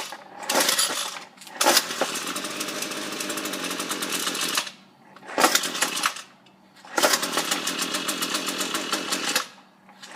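Ryobi string trimmer being pull-started cold with the choke on: after a short pull, the engine catches and runs with a rapid ticking for about three seconds, then cuts out. After another pull it runs again for about two and a half seconds and dies.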